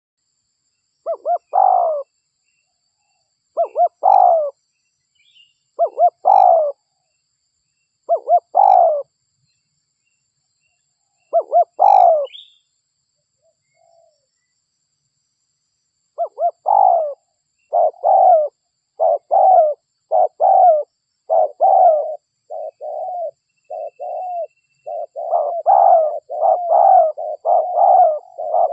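Derkuku (spotted dove) cooing. Five spaced phrases come about every two and a half seconds, then after a short pause a faster, nearly continuous run of coos. This is a lure call for drawing wild doves.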